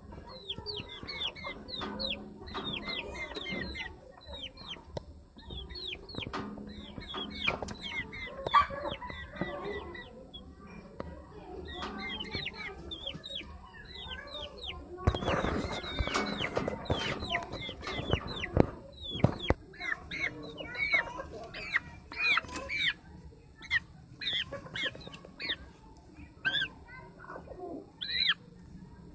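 Chickens clucking, with a steady run of short, high chirps throughout and a louder, harsher stretch of about four seconds around the middle.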